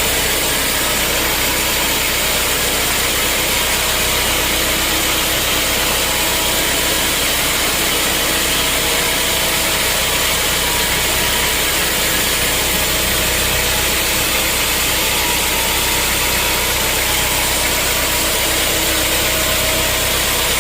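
Sawmill machinery running at a steady pace, a constant engine-like drone with a broad noise over it that does not change.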